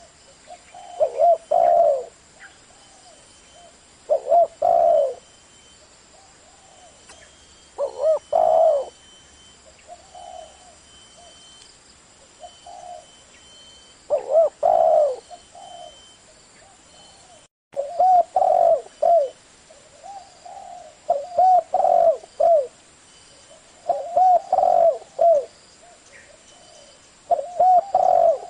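Spotted dove cooing in a deep-toned 'thổ' voice: phrases of a few low coos, repeated every three to four seconds, with softer coos between them. The sound cuts out for an instant a little past halfway.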